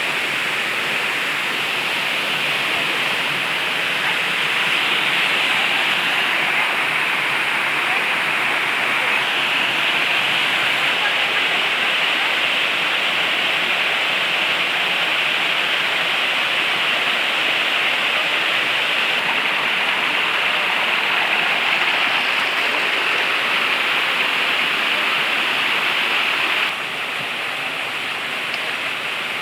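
Waterfall rushing: a steady, dense hiss of falling water that drops slightly in level near the end.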